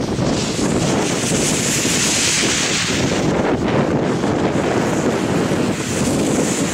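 Strong wind buffeting the microphone: a loud, steady rush of blizzard wind blowing snow about.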